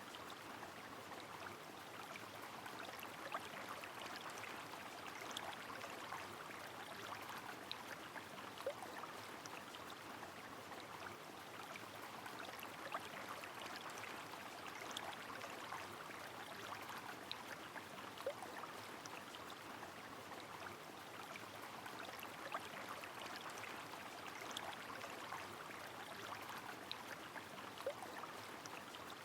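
River water flowing in the rain: a steady rush of water with many small drips and patters scattered through it.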